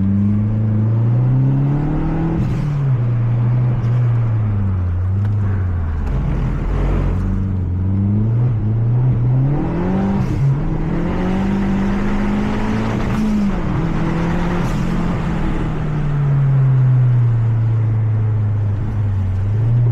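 Mazda 3 MPS's turbocharged 2.3-litre four-cylinder heard from the cabin on track, the revs climbing and dropping again several times as the car accelerates and slows for corners. It settles to a steady, lower note near the end.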